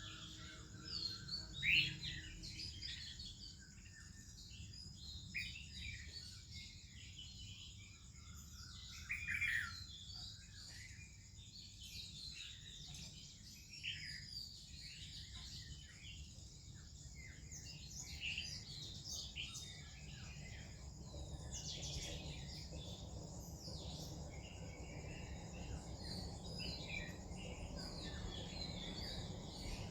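Morning bird chorus: an Oriental magpie-robin and other songbirds chirping and whistling in short, varied phrases, over a steady low background rumble.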